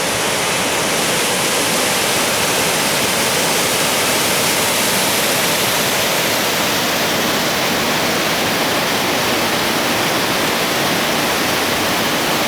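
Waterfall: water falling and rushing in a loud, steady roar.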